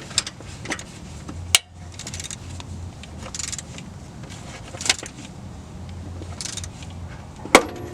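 A ratchet clicking in short runs as a harmonic balancer puller is cranked against the crankshaft, with a few sharp metallic snaps. The strongest snaps come about a second and a half in and near the end.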